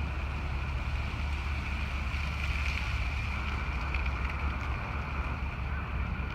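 Wind buffeting the microphone: a steady low rumble with a noisy hiss above it.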